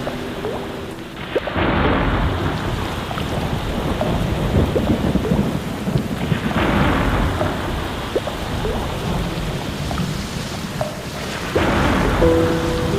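Steady rain with rolling thunder that swells three times. A few sustained music notes come in near the end.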